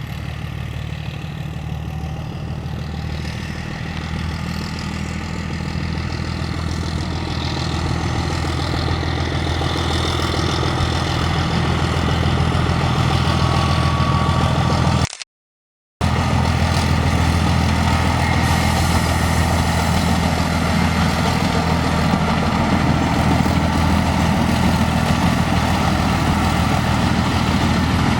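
Narrow-gauge diesel locomotive engine running with a steady low note, growing louder over the first half. The sound drops out completely for under a second about halfway through, then the engine carries on loud and steady.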